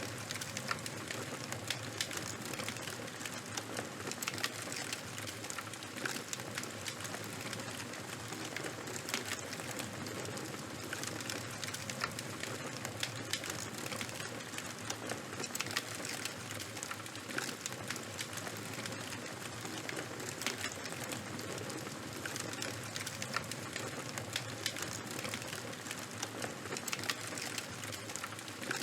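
Charcoal fire crackling: a steady hiss with many small, irregular pops and snaps.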